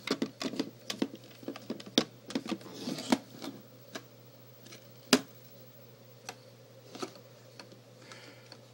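Irregular metallic clicks and knocks of a metal airsoft pistol magazine being fumbled in and out of an Air Mag C11 CO2 pistol's grip. They come quickly at first, with one sharp knock about five seconds in, then a few scattered clicks.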